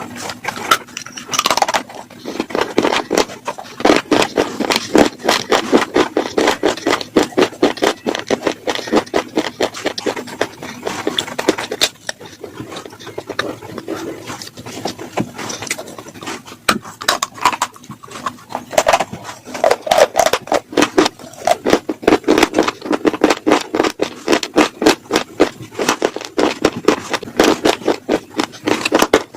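A bunch of slate pencils being bitten and chewed close to the microphone: a dense, irregular run of crisp crunches and snaps.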